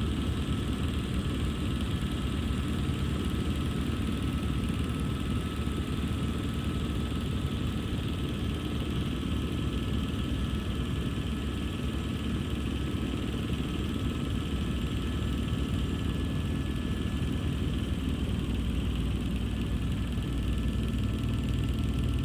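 Helicopter engine and rotor noise running steadily, heard from aboard the aircraft, with a slight change in its tone near the end.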